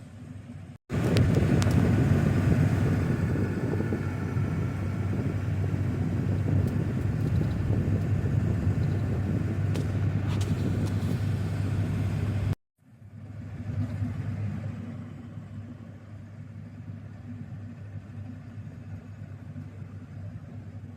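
Vehicle on the road: steady engine and road noise with a low hum. It cuts in abruptly about a second in, runs loudest for about twelve seconds, cuts out sharply, then comes back quieter.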